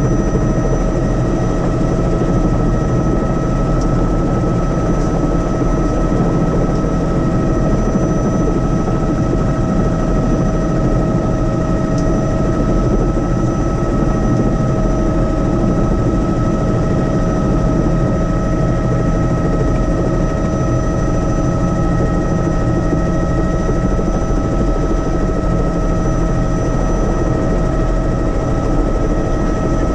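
Helicopter in steady cruising flight: a loud, even drone of rotor and engine noise with a constant high whine over it.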